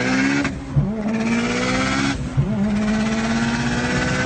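Big-turbo Mitsubishi Lancer Evolution engine under hard acceleration, heard from inside the car. Its pitch climbs, then falls at two gear upshifts, about half a second and two seconds in, and a short sharp crack follows each shift.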